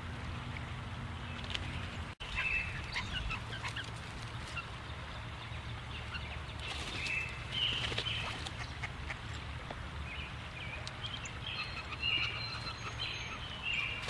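Short, harsh bird calls, heard several times, over a steady low hum, with a brief dropout in the sound about two seconds in.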